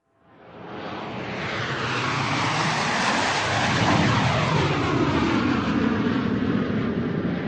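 Airplane flying by: its engine rush fades in from silence over the first couple of seconds and then holds loud, its tone sweeping as the plane passes.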